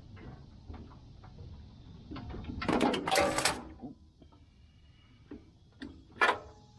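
Metal parts clattering and scraping as the Honda GX390's recoil starter housing is handled and worked back into place, with a few light clicks, a longer loud scrape about three seconds in and a sharp clack near the end.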